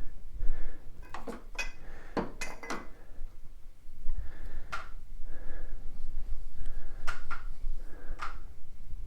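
Metal clinks, knocks and short scrapes as steel tool parts are handled, with a quick run of sharp clicks in the first few seconds, then irregular knocks and rubbing.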